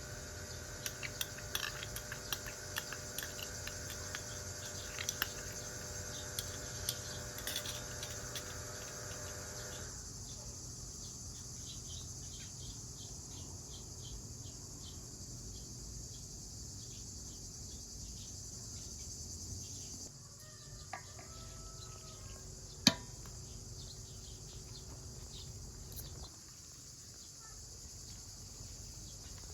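Crickets chirring steadily, with light clicks and taps in the first several seconds and one sharp click about two-thirds of the way through.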